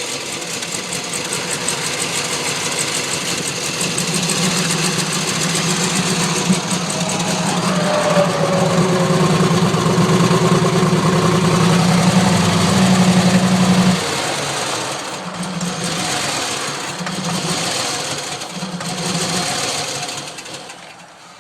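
A 2001 Chevrolet Silverado's 5.3-litre V8 running rough and unsteady, the sign of an engine that has been misfiring and will barely stay running. The engine gets louder over the first fourteen seconds, then drops and surges unevenly before fading near the end.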